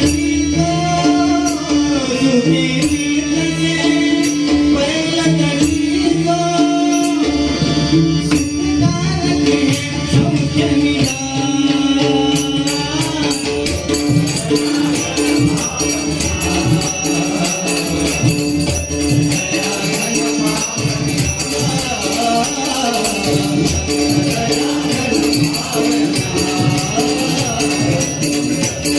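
Devotional abhang singing with instrumental accompaniment: a sung melody over a steady held tone, with jingling hand percussion keeping time that turns faster and denser about halfway through.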